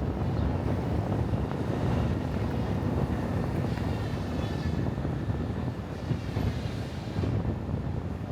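A vehicle running steadily, its rumble mixed with wind noise on the microphone.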